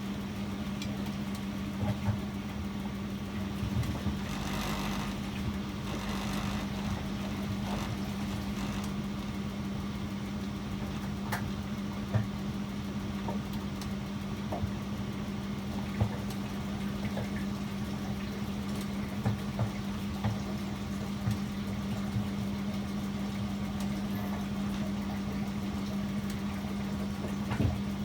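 Privileg 804 washing machine running, with a steady low hum, scattered light knocks and clicks, and a short hiss about five seconds in.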